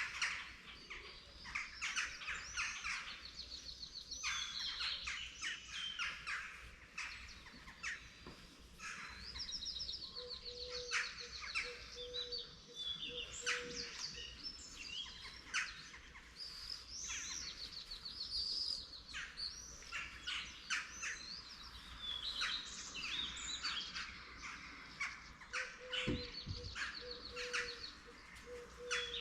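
Morning chorus of many songbirds singing and chirping at once, with short whistled phrases and fast trills that overlap and never pause.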